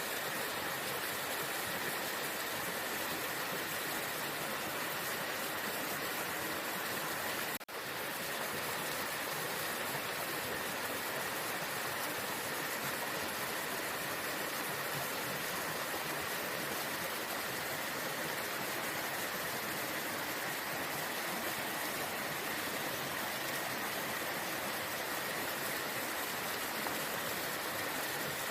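Waterfall: steady rushing water, with a brief drop in level about eight seconds in.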